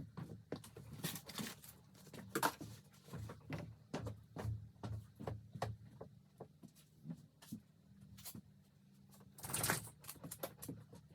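Irregular light knocks and clicks over a low steady hum, with a louder rustling scrape about nine and a half seconds in.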